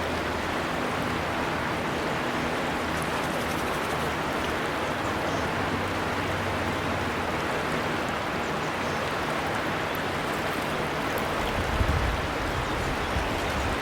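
River water flowing with a steady, even rushing, with a few faint high bird chirps here and there. A brief low bump sounds about twelve seconds in.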